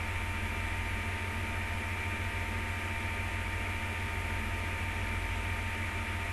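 Steady hiss with a low electrical hum and a few faint steady tones: the recording's background noise, with no other sound.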